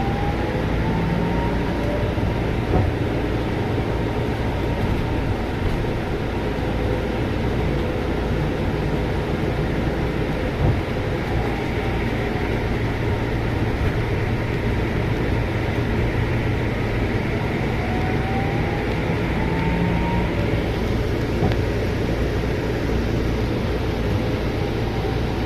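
Scania bus heard from inside the cabin while driving: a steady engine and road rumble, with a rising whine as it gathers speed near the start and again about 18 to 20 seconds in.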